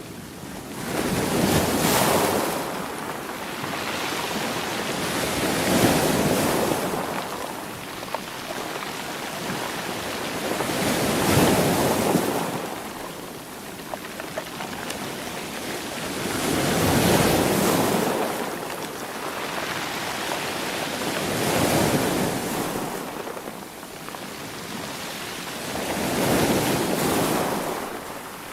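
Sea waves breaking and washing back in a steady rhythm, with a surge about every five seconds, six in all.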